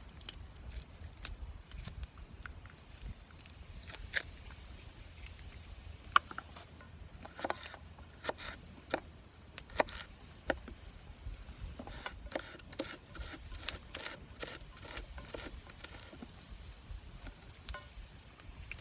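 Scattered light clicks and taps of food being prepared by hand: a knife, ingredients and cookware handled one piece at a time, at irregular intervals over a faint low rumble.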